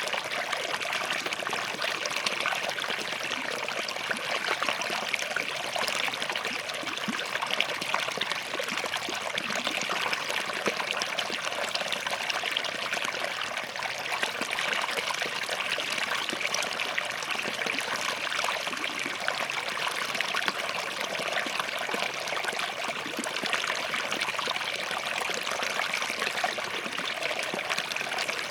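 Small forest stream flowing and trickling between rocks: a steady, even rush of water with fine splashing detail.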